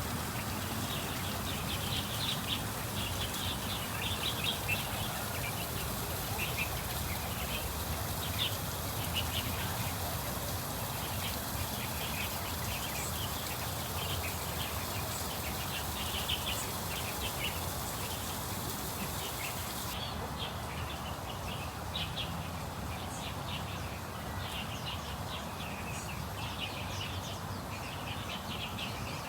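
Ducks and small birds calling, with many short high chirps throughout, over a steady low hum of background noise.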